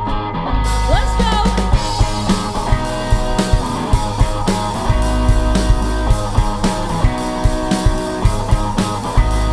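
Live rock band playing the instrumental opening of a song: drum kit with a steady beat under electric guitar and bass.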